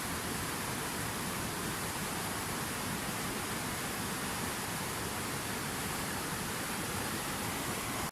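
Steady, unbroken rush of water falling in a fountain waterfall.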